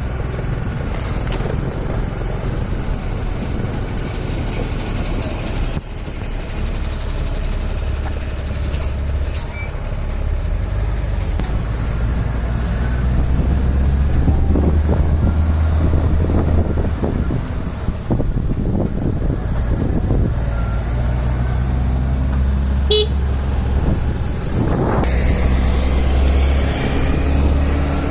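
Heavy diesel tipper lorries running loaded along a road: a loud, continuous low engine rumble with road noise, and a vehicle horn honking at times.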